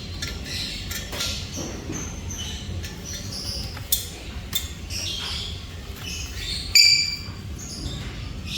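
Black-capped lory calling: a run of short high chirps and whistles, then one loud squawk about three-quarters of the way through, with a few sharp clicks near the middle.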